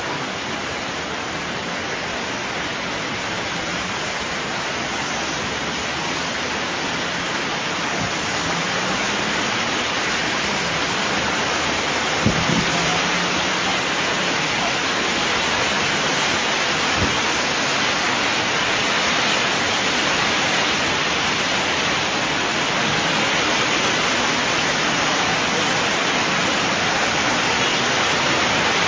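Rain pouring down steadily, a dense even hiss that slowly grows louder, with a brief knock about twelve seconds in.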